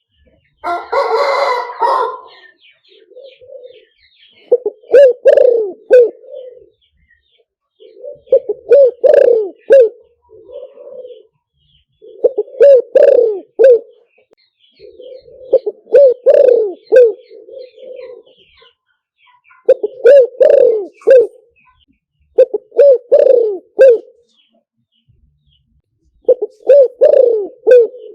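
Spotted dove cooing, a decoy call used to lure wild doves: about seven phrases of several low coos each, repeated every three to four seconds. About a second in there is a louder, harsher call, not a coo.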